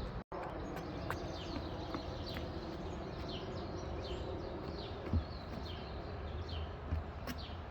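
Small birds chirping, a quick run of short falling notes repeated over and over, over a steady low outdoor background noise. The sound drops out for an instant near the start, and there is a single thump about five seconds in.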